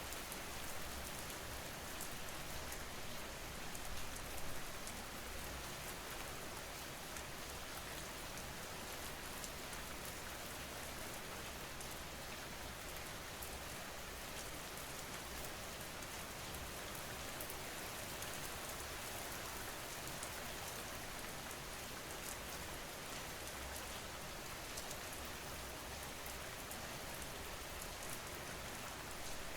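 Steady rain falling on a surface, an even patter of many drops with no thunder.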